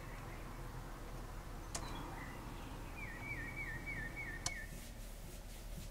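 A bird singing a short phrase of repeated wavering whistled notes, about four a second, starting about three seconds in, over a steady low hum. Two sharp clicks, one near the middle and one at the end of the phrase.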